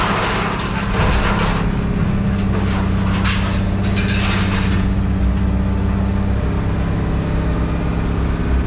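A heavy engine running steadily, with bursts of crunching and scraping from scrap metal being worked in the first half.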